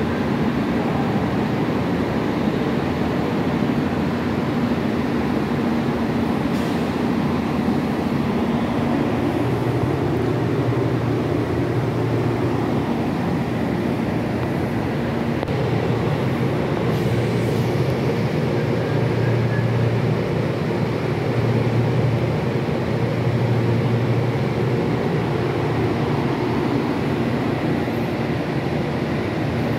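CPTM electric commuter train running slowly past along the platform: a continuous rumble of wheels on rails, joined about nine seconds in by a low steady hum.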